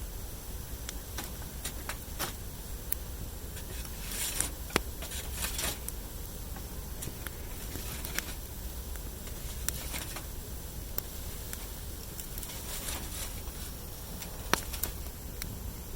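Wood campfire crackling, with irregular sharp pops of burning wood and a few brief rustles.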